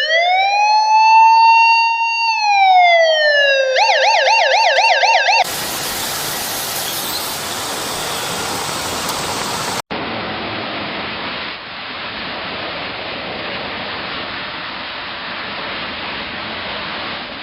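Emergency vehicle siren: one long wail rising and falling, then a fast warbling yelp, cut off suddenly about five seconds in. A steady rushing noise follows, with another abrupt change near the middle.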